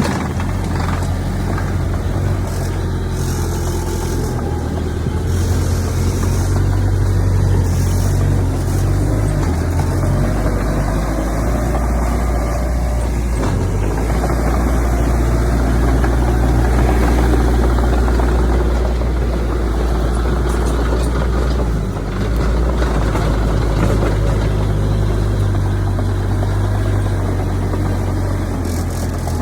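Heavy diesel earthmoving machinery, bulldozer and dump trucks, running steadily with a deep low engine rumble and a brief dip in level about three-quarters of the way through.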